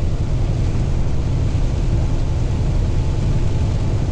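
Steady low rumble of a semi-truck's engine and road noise heard from inside the cab while driving.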